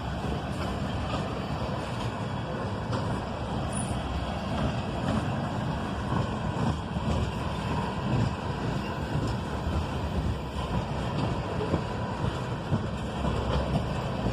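Freight train of ethanol tank cars rolling past: a steady rumble of steel wheels on the rails.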